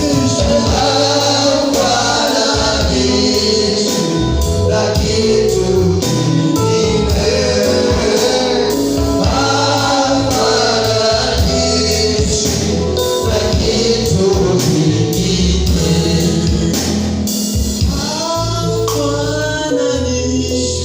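Gospel worship music: a choir and a lead singer with a band, bass and percussion keeping a steady beat.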